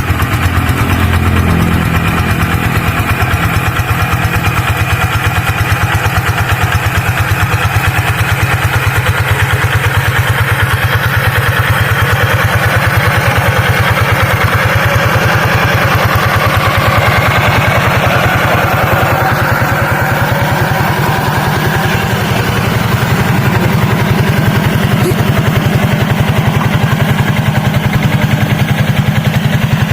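Tractor engine running steadily at an even speed while plowing a flooded rice paddy, with a fast, regular firing beat.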